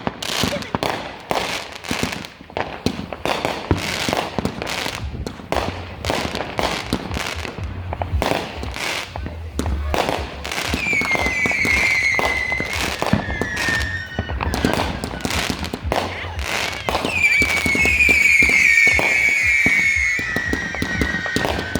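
Consumer fireworks going off in a rapid string of bangs and crackles. Whistling tones that glide downward join in about halfway through and again a little later.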